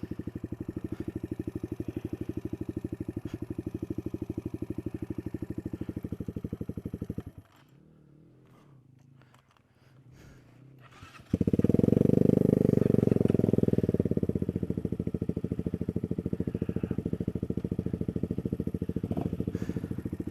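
Small single-cylinder off-road motorcycle engine idling with a steady rapid pulse, cutting out about seven seconds in. After a few seconds of quiet it is started again, coming in louder before settling back to idle.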